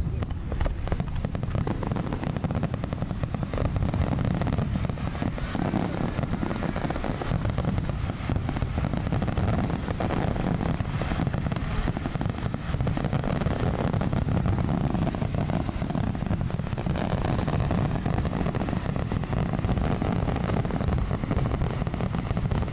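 Fireworks display going off in a dense, continuous barrage of booms and crackle, with no pauses.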